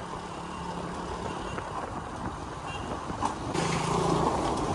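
A vehicle engine running steadily during a ride, with road and wind noise. About three and a half seconds in, the noise swells and a heavier engine tone comes in.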